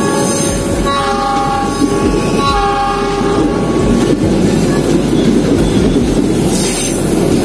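A passing passenger train's horn sounds twice, the second blast just after the first, over the rumble of the coaches going by close, their wheels thumping over rail joints. After about three and a half seconds only the rumble and the wheel clatter remain.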